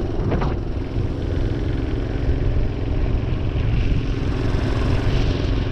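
Minibike's small carburetted gas engine running steadily while under way, with a dense low rumble beneath it.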